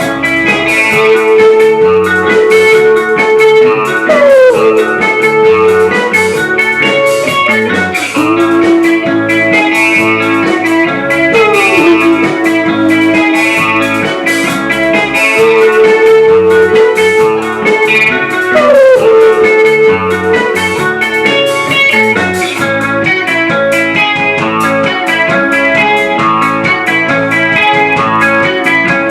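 Rock band playing live in an instrumental stretch with no singing. Guitar plays held notes with sliding pitch swoops about every seven seconds, over drums.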